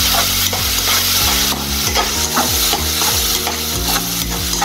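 Vegetables in Schezwan sauce sizzling in a hot metal kadai while a slotted metal spatula stirs them, scraping across the pan in short, repeated strokes.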